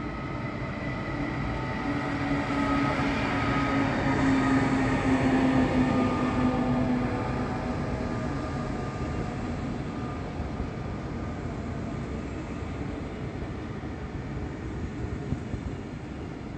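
Belgian (SNCB) passenger train of double-deck coaches rolling slowly past: a rumble of wheels on rail with a steady whine, growing louder for the first few seconds, then slowly fading as the whine dies away.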